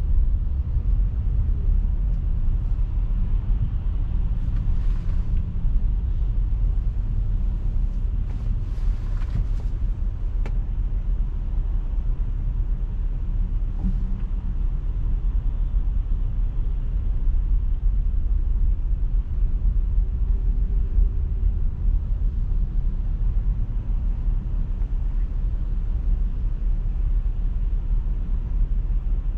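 Steady low rumble of a car driving: road, tyre and engine noise, strongest in the bass. A few faint brief ticks come about eight to ten seconds in.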